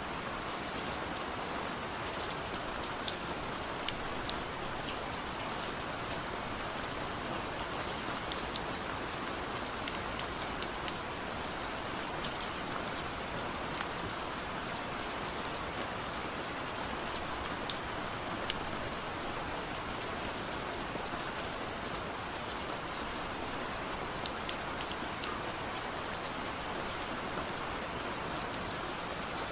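Steady rain falling, with many scattered sharp ticks of individual drops striking a surface.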